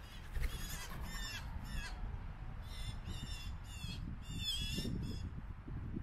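A bird's harsh, squawking calls, about eight in three short groups of two or three, over a steady low rumble.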